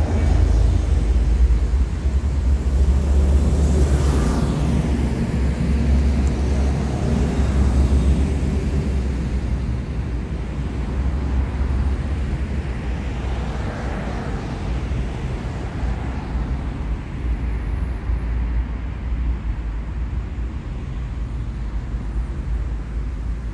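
City street traffic: one vehicle passes about four seconds in and another around fourteen seconds, over a constant low rumble.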